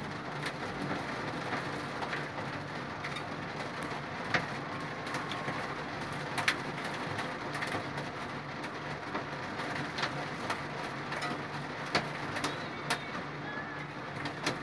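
Steady rain falling, with scattered sharp taps of drops hitting a hard surface.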